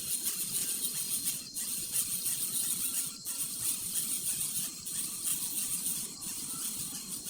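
Steady, high-pitched insect chorus with a thin, unbroken whine running under it.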